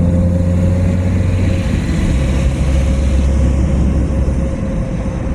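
A car driving on a road: steady engine and road noise, with the engine note dropping to a lower pitch about a second and a half in.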